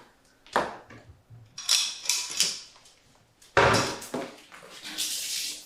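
Wooden cabinet doors knocking open and shut with a clatter of household items, then a kitchen faucet running near the end.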